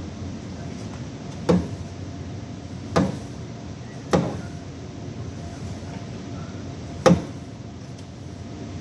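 Four sharp knocks, spaced irregularly, over a steady low hum.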